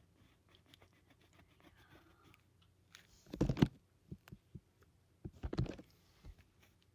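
Pencil drawing on paper: faint light strokes, then two short, louder bursts of rubbing with low thumps, about three and a half and five and a half seconds in.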